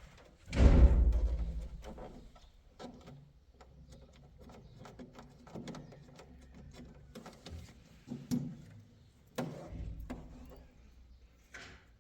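A heavy thump about half a second in that rings on briefly, then scattered knocks and clicks of things being handled, with a few sharper knocks near the end.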